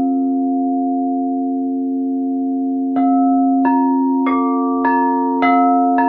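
A singing bowl rings in a steady, sustained hum. About three seconds in, a run of struck metal notes begins, roughly one every 0.6 s, each ringing on over the hum at a different pitch.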